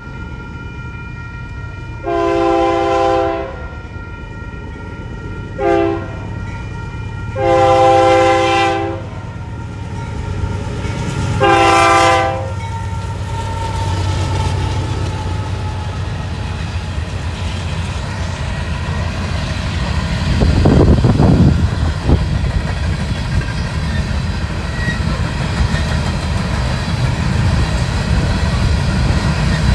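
Union Pacific diesel freight locomotive's multi-chime air horn sounding four blasts, the second one short. Then the train rolls past with a steady low rumble and clicking wheels on rail joints, growing louder in the last third as the hopper cars go by.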